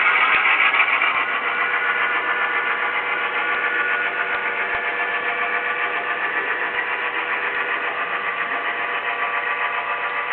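SoundTraxx Tsunami sound decoder in a model GP-9 locomotive playing its EMD 567 diesel prime mover sound through the model's small speaker: a steady engine run, a little louder in the first second, with no deep bass.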